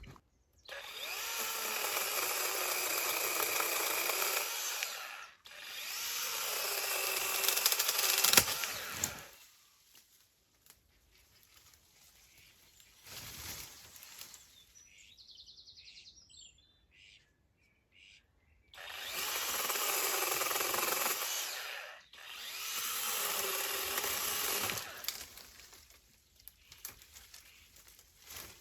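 A handheld power tool running in two pairs of steady runs of about four seconds each, the first pair near the start and the second about two-thirds of the way in, with a quieter stretch between them.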